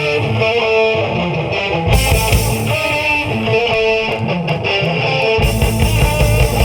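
Rock band playing live: an electric guitar riff repeating over bass and drums, in an instrumental passage without vocals.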